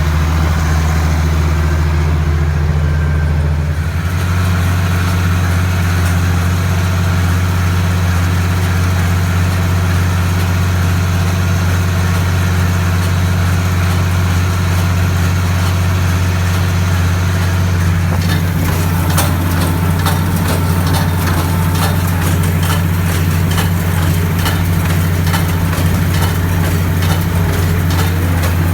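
Farm tractor engine running steadily; about four seconds in, its note shifts. From about two-thirds of the way through, a quick ticking clatter runs along with it.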